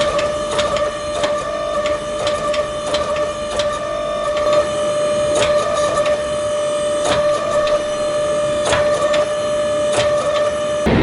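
Irregular hammer blows on steel during forging, about one to three a second, over a steady machine hum.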